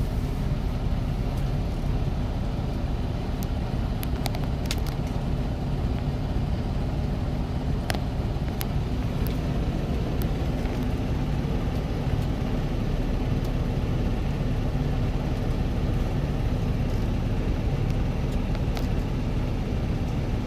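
Truck driving on the road: a steady low engine and road rumble with a constant hum, and a few scattered sharp ticks.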